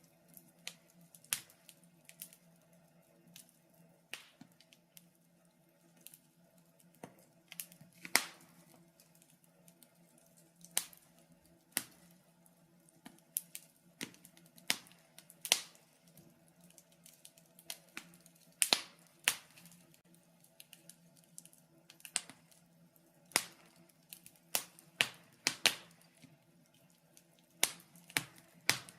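Wood fire crackling in a fireplace: irregular sharp pops and snaps, some loud and some faint, about one every second or two, over a faint steady low hum.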